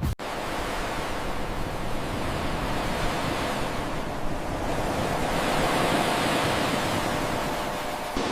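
Ocean surf: a steady wash of waves, swelling gently toward the middle, starting just after a brief dropout at the very start.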